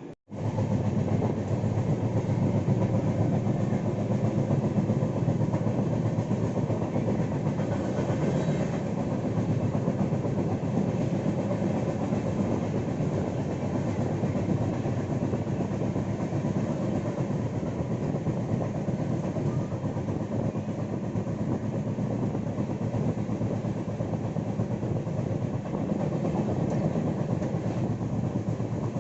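Passenger train running at speed: a steady rumble and rattle of the coach on the rails. It starts abruptly just after the start.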